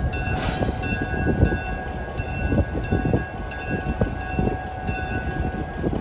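Truck reversing alarm beeping steadily, about three beeps every two seconds, over the low rumble of the truck's engine and some scattered knocks.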